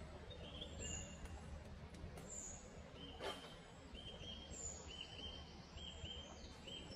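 Songbirds singing in the trees: thin high notes about once every second and a half, and from about four seconds in a run of short paired chirps, roughly two a second. Underneath is a steady low rumble of distant background noise, and there is one brief click a little past the middle.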